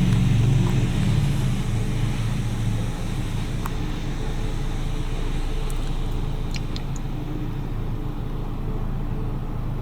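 Touchless automatic car wash equipment running, heard from inside a pickup's cab during the pre-soak stage. A loud low hum and spray hiss fade over the first few seconds into a steadier, quieter hum with a few light ticks.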